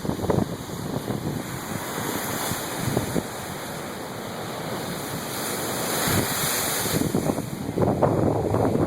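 Storm surf crashing and washing ashore under strong gusting wind, with wind buffeting the microphone in irregular low thumps that grow stronger near the end.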